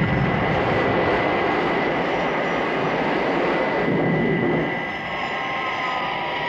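Jet aircraft engine sound effect: a steady, loud roar with a high whistling tone through it, easing slightly about five seconds in.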